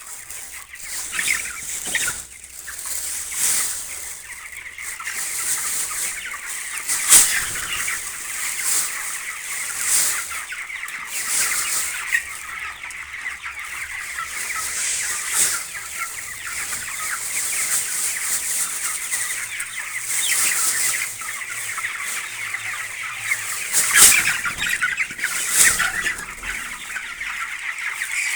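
Many chickens clucking and calling together in a poultry house, a steady dense chatter with frequent sharper squawks, the loudest about seven seconds in and again near the end.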